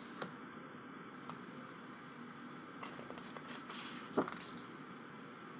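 Pages of a photobook being turned and handled: soft paper rustles and a few light clicks, the sharpest about four seconds in.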